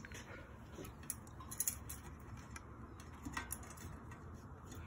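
Faint, irregular small clicks and ticks, a few of them sharper, over a low room hum.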